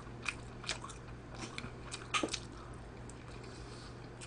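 Close-up mouth sounds of chewing spicy stir-fried pork intestines: a few scattered soft wet smacks and clicks, over a steady low hum.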